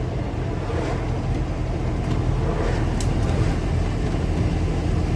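Car driving along a road: a steady low engine hum with road noise.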